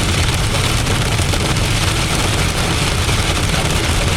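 Strong storm wind buffeting the microphone, with wind-driven rain: a steady heavy rumble under a loud hiss.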